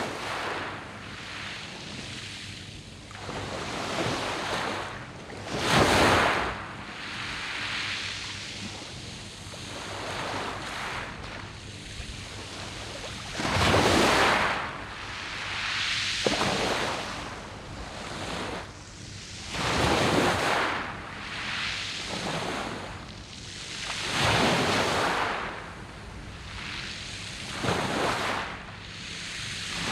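Sea waves breaking and washing back over a round-pebble (mongdol) beach, surging in and out every few seconds, with the biggest swells about 6 and 14 seconds in. Light wind buffets the microphone.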